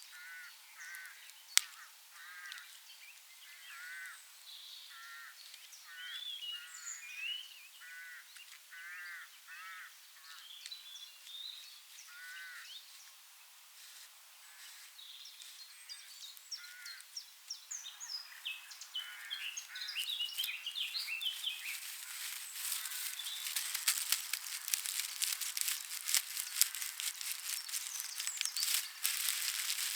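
Birds calling outdoors: a run of short calls repeated about once a second, with higher chirps over them. From about eighteen seconds in, dry straw is handled close by, its crackling and rustling growing louder until it drowns out the birds.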